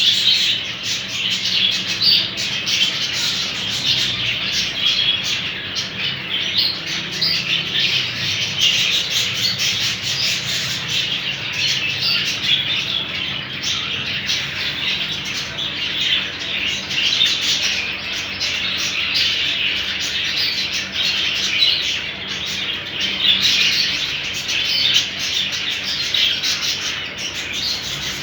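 Many caged ornamental songbirds chirping at once, a dense, unbroken chatter of high calls.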